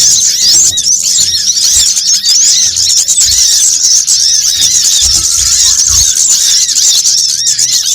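Dense, continuous chatter of many overlapping high-pitched chirps and short twittering notes from small birds, a sunbird lure call of the agitated ('ribut') kind. A few faint low thumps sit under it.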